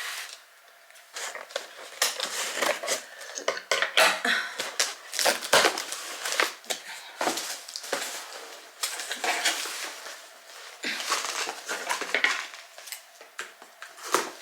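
A parcel being opened and unpacked by hand: irregular rustling, crinkling and clattering of packaging and the items inside, starting after a brief lull.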